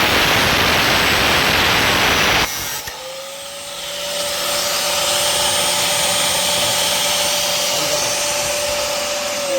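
Angle grinder's disc biting into a workpiece with a loud, harsh hiss for about two and a half seconds. Then it runs free, its whine climbing back to speed and holding steady, and the pitch starts to drop right at the end as it is switched off.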